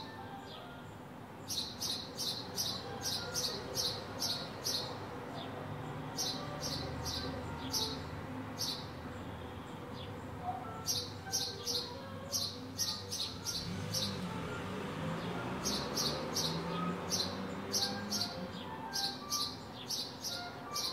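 A small bird chirps in quick series of short, high chirps, about three a second, in bursts of a few seconds with short pauses between, over a steady low street background.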